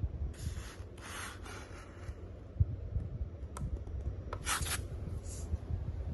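Cooling fan inside an LG 27GN950-B monitor running steadily with a low hum, a fan noise the owner finds unbearable. Several short rubbing noises sit over it, about half a second to two seconds in and again near four and a half seconds.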